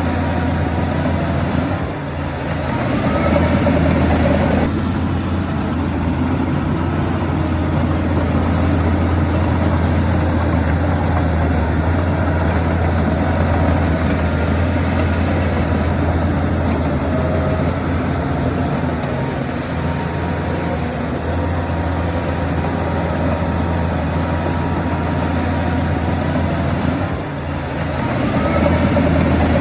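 Heavy diesel earthmoving machinery running with a steady low drone. The engine sound dips briefly and then rises again about two seconds in and near the end.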